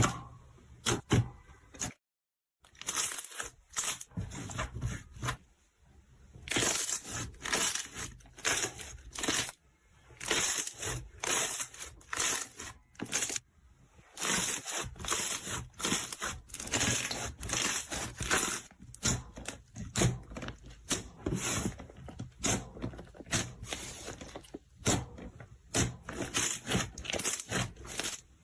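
Slime being squeezed, stretched and pressed by hand, making a dense run of irregular squishing, crackling and popping sounds. The sound drops out briefly about two seconds in.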